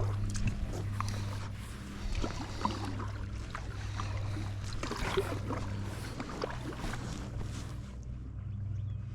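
Kayak paddling: water splashing and dripping off the paddle in quick irregular patters, easing off about eight seconds in, over a steady low hum.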